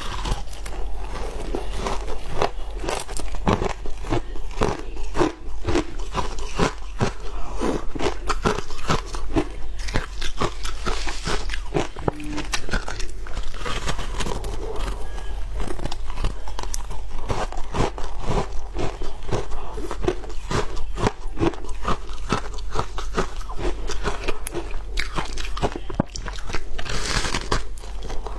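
Shaved ice being bitten and chewed close to the microphone: continuous, irregular crunching and crackling.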